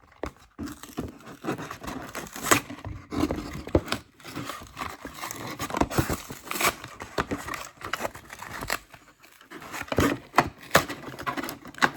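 Toy car packaging being worked open by hand: plastic and cardboard crinkling, tearing and scraping, with irregular sharp clicks and rustles throughout.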